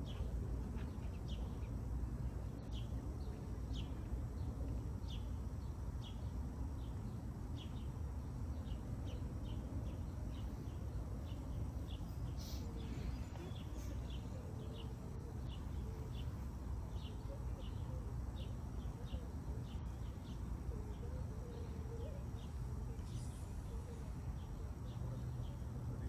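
A small bird chirping steadily, short high chirps a little more than once a second, over a low steady rumble of outdoor background noise.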